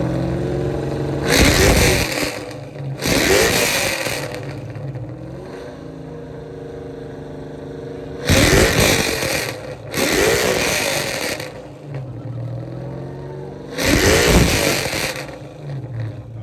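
A car engine with a loud exhaust, idling and revved hard five times in short blips, each rev rising and falling within about a second.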